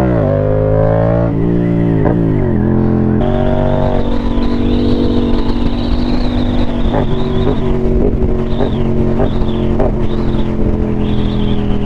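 Motorcycle engine under way: the engine note climbs as it accelerates, drops about two seconds in, then settles into a steady cruising note.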